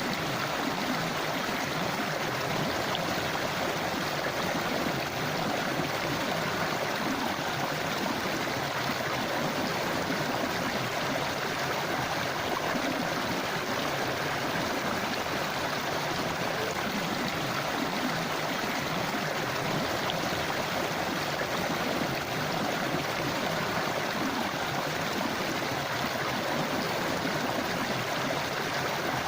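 Forest river flowing steadily over rocks, an even rushing and babbling of water.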